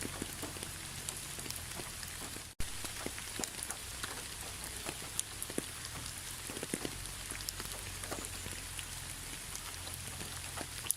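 Steady rain falling, with many individual drops ticking against a surface. The sound cuts out for an instant about two and a half seconds in, then carries on.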